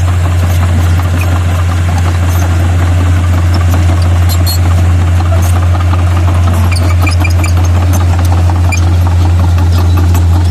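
Bulldozer's diesel engine running steadily with a strong low drone, with scattered light clanks and clicks over it.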